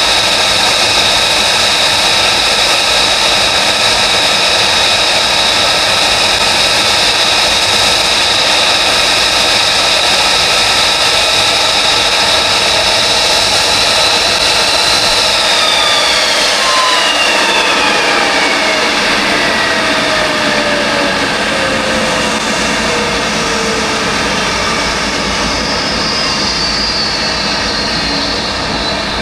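F-35B's Pratt & Whitney F135 jet engine whining steadily, then about halfway through the whine falls steadily in pitch as the engine spools down at shutdown. Loud jet noise goes on underneath throughout.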